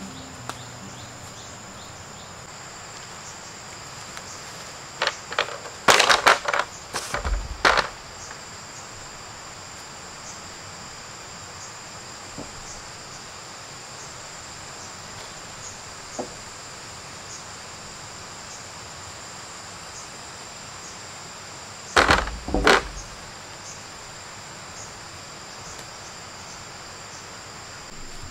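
Steady high insect chirring, two thin high tones held throughout, with two clusters of loud sharp knocks and clatter: one about five to eight seconds in, another about twenty-two seconds in.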